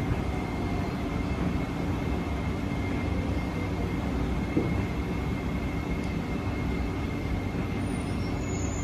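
Kawasaki–CRRC Sifang C151B MRT train running between stations, heard inside the car. A steady rumble is joined by a faint steady high tone, with a single brief knock about halfway through.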